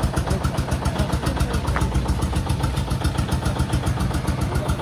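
Tractor diesel engine idling steadily, with an even low pulsing beat. A short click sounds once, just under two seconds in.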